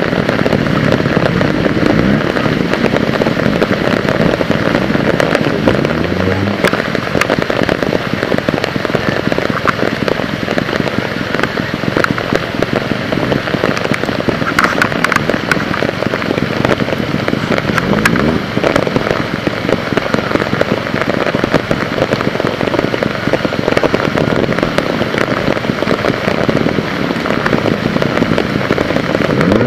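Heavy rain pattering close to the microphone, a dense steady crackle of drops. A trial motorcycle's engine revs up briefly a few times underneath.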